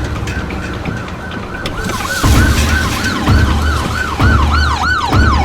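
Emergency-vehicle siren in a fast rise-and-fall yelp, about three cycles a second, growing louder as it approaches. Surges of low rumble come and go about once a second beneath it.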